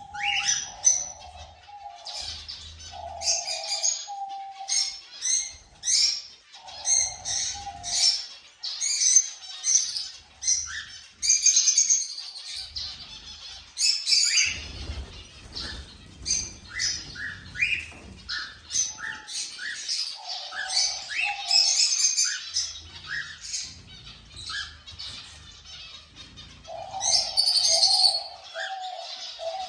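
Cockatiels chirping and calling in a rapid run of short, high notes and quick rising whistles. A lower repeated cooing comes and goes underneath, strongest near the end.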